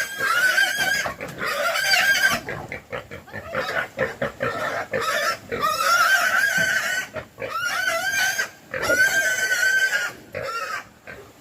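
Pig squealing: a string of long, high-pitched squeals, each lasting a second or two, with a run of short grunts between them near the middle.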